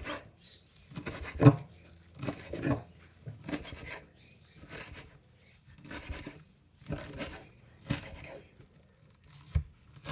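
A bunched-up handful of fresh parsley being cut through, stroke after stroke, roughly one cut a second.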